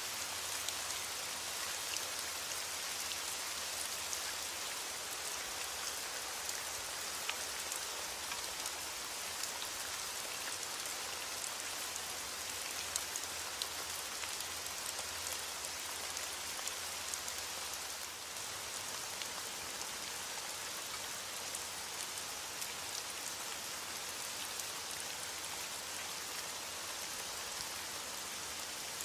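Heavy rain falling steadily on a window, a continuous hiss with many small sharp ticks of drops striking, easing slightly about eighteen seconds in.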